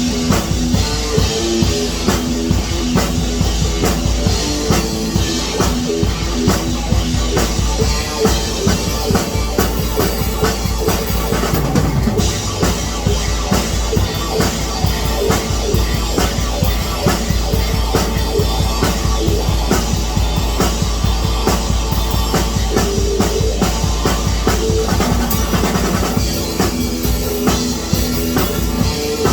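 Rock music with a drum kit playing a steady beat over bass and other pitched instruments.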